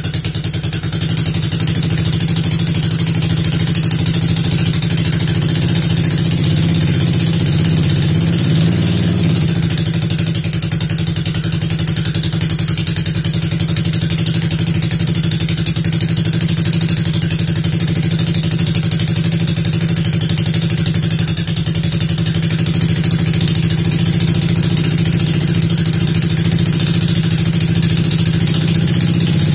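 Newly swapped-in 200cc engine running steadily at idle during its first fire-up after the motor swap.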